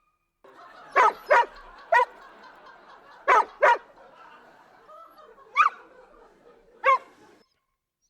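A dog barking: seven short, sharp barks at uneven intervals, two of them in quick pairs.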